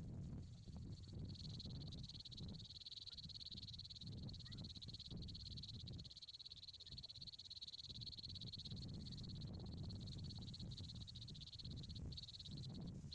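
Steady high-pitched trilling chorus of small animals, over a low rumble.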